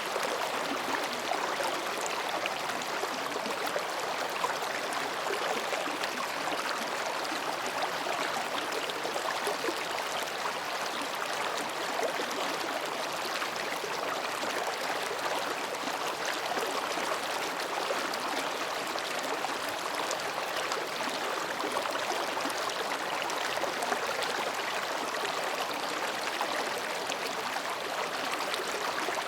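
Mountain stream babbling steadily as it flows between rocks, an even rushing and gurgling of water with no change in level.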